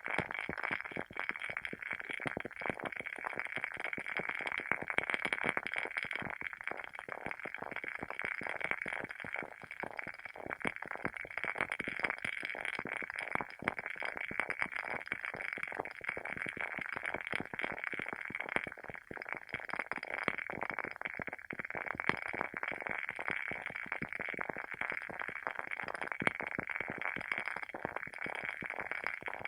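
Wooden wick of a WoodWick candle crackling steadily as it burns: a dense, continuous patter of small pops and snaps, like a tiny fire.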